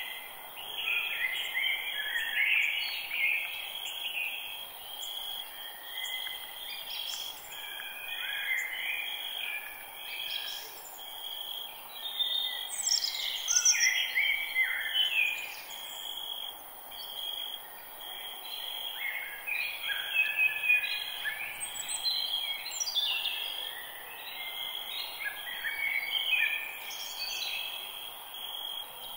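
Several birds singing and chirping in a forest, phrases overlapping one after another. A steady high insect drone runs underneath.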